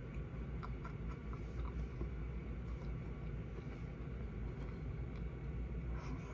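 Faint chewing with the mouth closed: a few small scattered clicks over a steady low rumble, with a short cluster of clicks near the end as more food goes into the mouth.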